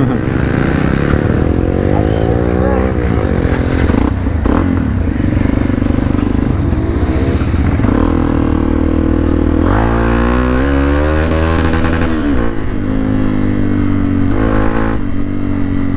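Hero Xpulse 200 single-cylinder motorcycle engine revving up and down while ridden over rough off-road ground, its pitch repeatedly rising and falling. It climbs steeply to a higher rev about two thirds of the way through.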